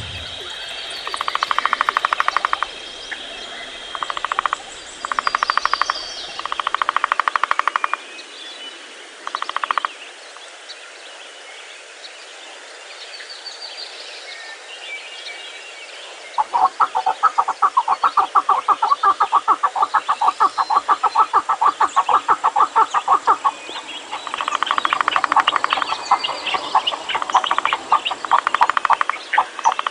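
Birds calling in a forest: loud rapid rattling trills, several short ones in the first ten seconds, then longer bouts of several seconds in the second half, with thin high chirps from smaller birds between them.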